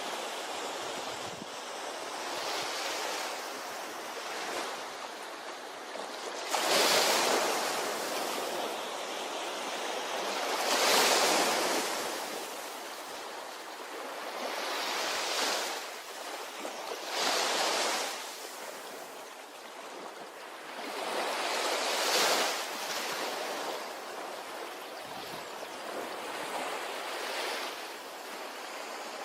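Ocean waves breaking on a beach: a constant wash of surf that swells louder every few seconds as each wave comes in, several of the swells clearly stronger than the rest.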